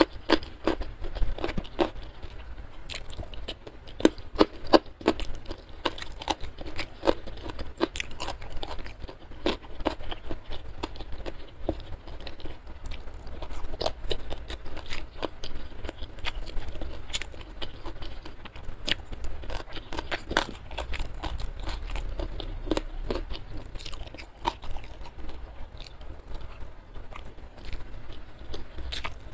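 A person chewing and crunching food close to the microphone, with many sharp, irregular clicks and wet mouth sounds.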